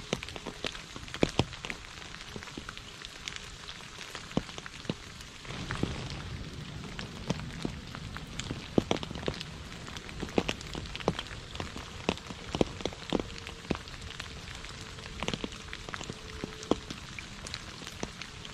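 Steady rain falling on a puddle and wet fallen leaves, with many separate drops plinking sharply over the hiss. A low rumble swells briefly about six seconds in.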